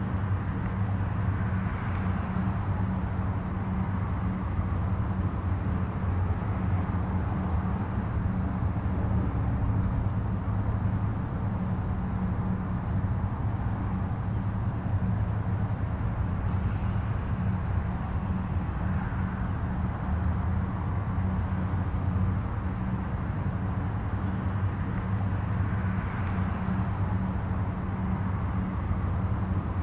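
Distant highway traffic: a steady low rumble of tyres and engines, with a few vehicles swelling and fading as they pass.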